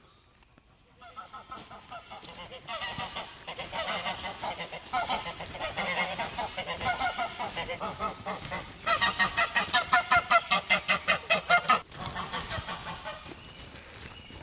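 An animal calling: a run of pitched cries that quickens about nine seconds in into a fast, loud chatter of about eight notes a second, which stops abruptly near the end.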